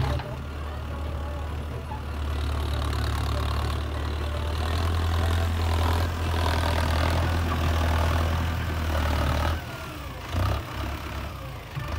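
Tractor diesel engine running steadily under load. About three-quarters of the way through, its low note drops away, then comes back in short surges.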